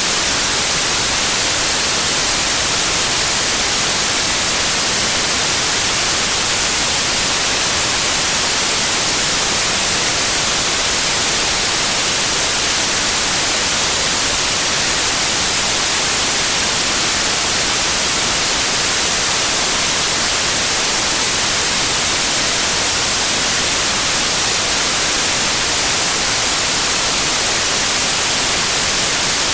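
Steady synthetic noise signal: an even, unbroken hiss with no changes, strongest in the treble.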